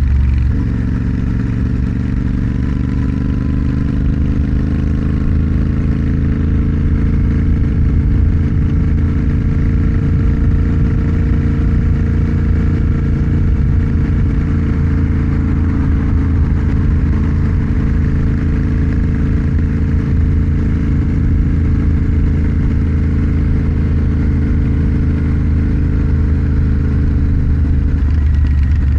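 Motorcycle engine running under way. It shifts gear just after the start, pulls up slowly in pitch for about ten seconds, then holds a steady cruise, with another change in engine note near the end.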